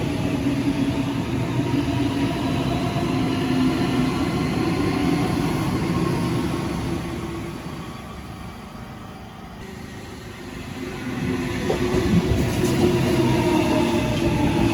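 Electric passenger train running through the station, with steady motor whine and wheel noise. It fades about seven seconds in, then a train builds up loud again about three seconds later.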